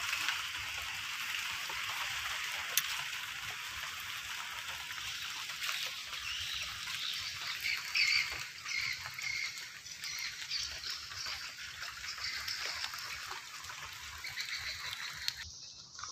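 Steady hiss of rain and water by a flooded irrigation canal, with scattered animal calls through the middle stretch; the hiss thins suddenly near the end.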